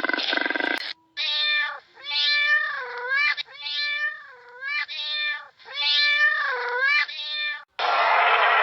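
A cat meowing over and over: about seven drawn-out meows, several dipping in pitch in the middle and rising again. A rough, noisy sound cuts off about a second in, and a loud rushing noise starts abruptly near the end.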